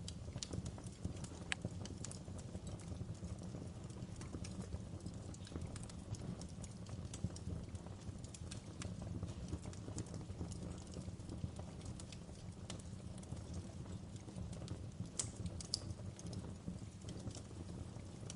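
Wood log fire crackling in a fireplace: irregular sharp pops and snaps over a low steady rumble, with two louder pops about three-quarters of the way through.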